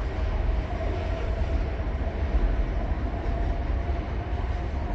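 Passenger train hauled by a GM diesel locomotive rolling by, a steady low rumble with a faint steady whine above it.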